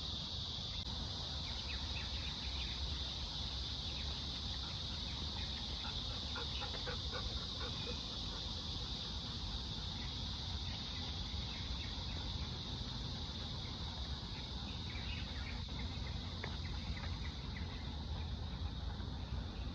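Cicadas droning steadily and high-pitched, with scattered short bird chirps and calls over the top and a low rumble underneath.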